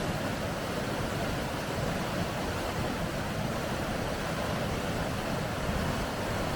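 Steady rushing of river rapids, an even unbroken roar of water with no separate splashes or changes.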